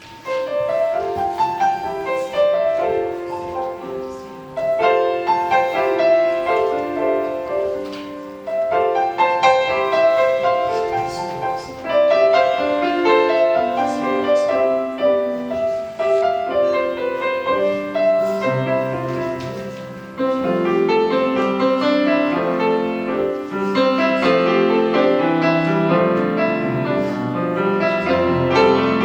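Piano music played in phrases; deeper bass notes join a little past halfway, and the playing is louder and fuller from about two-thirds of the way in.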